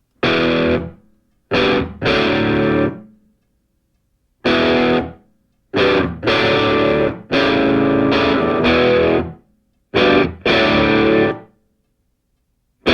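Music: distorted electric guitar playing chords in short bursts, each cut off sharply, with brief silences between them.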